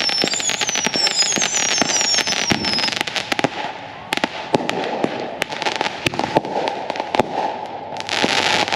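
Fireworks going off: a dense, constant crackle of small pops. Several short, falling whistles come one after another in the first three seconds, and a rushing hiss comes near the end.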